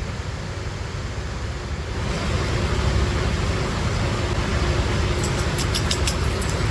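Construction machinery engine running steadily under a haze of rain noise. It gets louder about two seconds in, and a quick run of sharp high clicks comes near the end.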